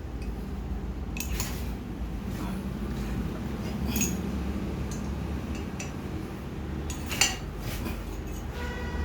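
Metal parts clinking and clanking now and then, several sharp knocks with the loudest about seven seconds in, over a steady low hum.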